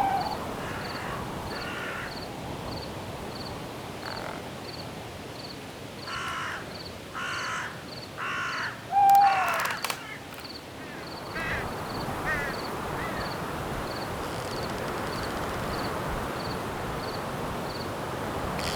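A crow cawing four times, about a second apart, in the middle of the stretch. Behind it are a cricket chirping steadily about twice a second and an even hiss of night-forest wind, with a short whistled bird note at the start and again with the last caw.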